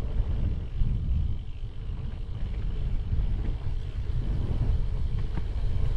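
Wind buffeting the microphone of a bicycle coasting downhill at speed, a gusty low rumble, with one faint click about five seconds in.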